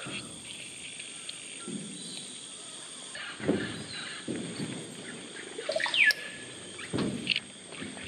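Oropendola call: a quick falling whistle that levels off into a short held note about six seconds in, over the steady high drone of insects in the rainforest canopy.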